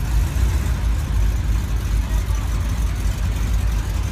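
C3 Chevrolet Corvette V8 engine running at low speed as the car rolls slowly past, a deep, steady low rumble.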